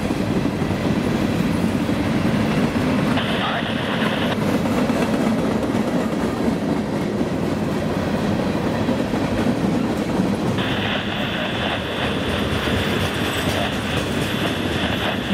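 Freight train of covered hoppers and tank cars rolling past at close range: a steady, loud rumble of steel wheels on the rails. A higher squeal from the wheels joins in for about a second near four seconds in, and again from about ten seconds in onward.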